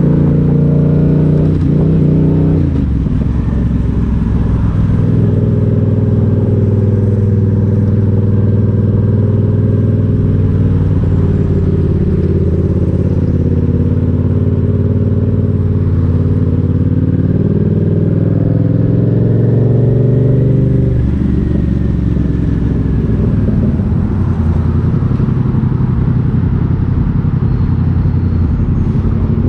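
Motorcycle engine running under way, its pitch rising and falling with the revs, with clear shifts in engine note about 3 seconds in and again about 21 seconds in.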